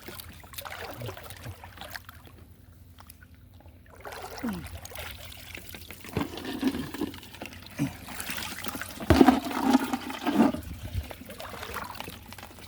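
Water sloshing and splashing in irregular bursts, loudest about nine to ten seconds in.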